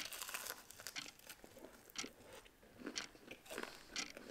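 A crisp bite into a piece of battered fried chicken, then crunchy chewing, with short crunches every half second or so.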